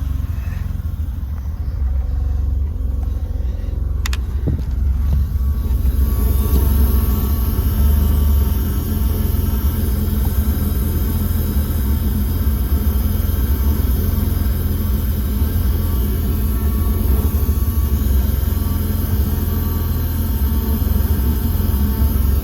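1992 BMW 730i engine running steadily with a low rumble. A single click about four seconds in, and the sound gets louder and fuller from about six seconds.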